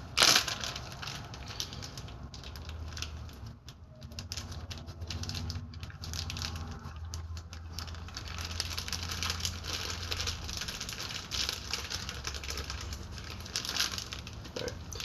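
Irregular rustling and small clicks of bearing parts and packaging being handled, with one sharp click just after the start. A low steady hum sits underneath through the middle.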